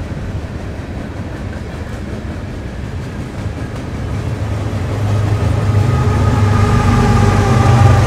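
Diesel train approaching, its rumble growing louder from about halfway through as a low engine drone builds, with a steady higher whine joining near the end.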